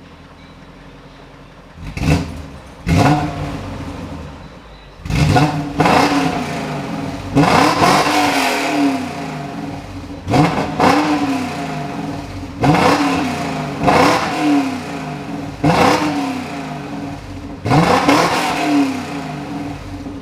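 BMW S62 4.9-litre V8 in an E39 M5 Touring, free-revving while parked through an exhaust with the rear resonator cut out and replaced by a straight pipe. It idles quietly for about two seconds, then is blipped again and again, about a dozen quick revs, each rising sharply and falling back.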